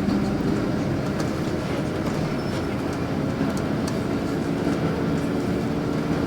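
Inside a LiAZ 5292.65 city bus: the engine runs steadily under the steady noise of the bus, with scattered clicks and rattles from the cabin.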